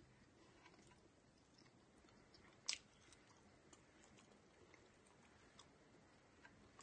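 Faint close-up chewing of crispy spicy pork floss, with scattered small crunches and two sharper crackles, one about two and a half seconds in and one at the very end.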